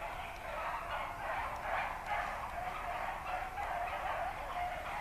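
A pack of rabbit dogs baying and yelping together in a steady chorus of overlapping cries, the sound of hounds in full cry running a rabbit's trail.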